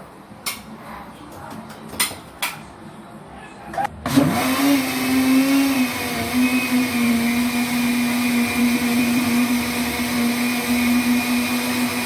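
A few sharp clicks and knocks, then about four seconds in a countertop blender motor starts and runs steadily, blending a pizza batter of flour, eggs, milk and oil. Its hum drops a little in pitch soon after starting and then holds steady.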